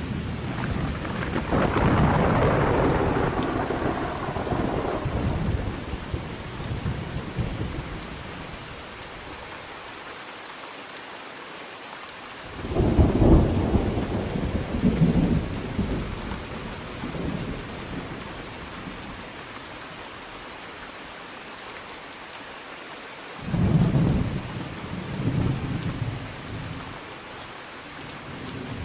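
Thunderstorm: steady rain falling, with rolling thunder. A long rumble at the start fades away over several seconds, then two more peals break in suddenly, about a third of the way in and again near the end, each rolling on in smaller rumbles.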